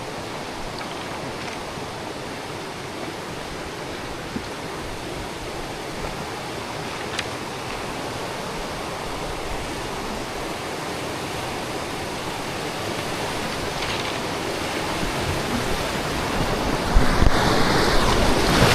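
Rushing river water, a steady hiss that grows louder over the last few seconds, with rougher peaks near the end.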